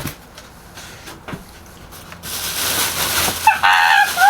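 Packaging being handled while a washing machine box is opened: a couple of sharp clicks, then a steady rustling hiss starting about two seconds in, with short squeaky squeals that bend up and down near the end.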